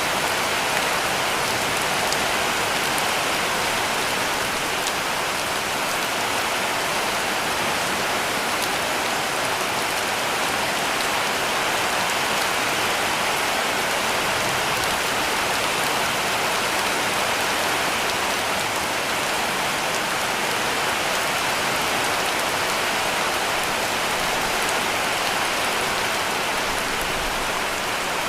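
Heavy rain falling steadily on a cabin roof, a dense, even patter with no letup.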